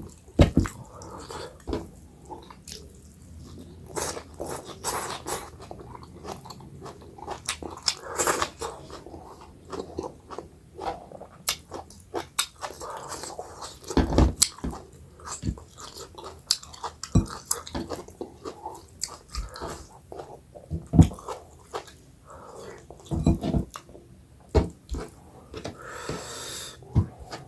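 Close-miked chewing and mouth sounds of someone eating a meal of finger-millet dhido and chicken gravy curry: irregular wet smacks and clicks, with a few fuller, louder bites now and then.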